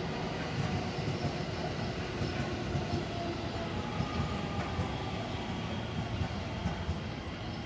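JR West 223 series 2000 subseries electric train running into the platform and slowing: a steady rumble of wheels on rail with light clicks from the rail joints, and a faint motor whine gently falling in pitch as it brakes.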